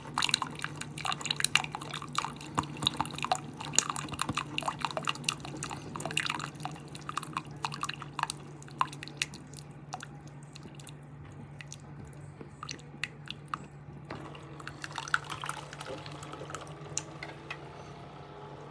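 Keurig K-Supreme Plus single-serve coffee maker brewing: its pump hums steadily while coffee drips and spatters into the cup. The dripping is dense at first and thins out after about ten seconds, as the brew nears its end.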